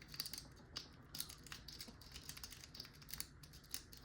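Rake-style lock pick being worked in a lock's keyway with a tension wrench: faint, irregular metallic clicks and scrapes as the pick rattles the pin stacks, with a few sharper clicks among them.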